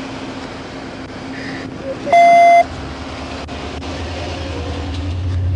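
A single loud electronic beep lasting about half a second, about two seconds in, over a steady low engine hum; after the beep a deeper vehicle rumble builds toward the end.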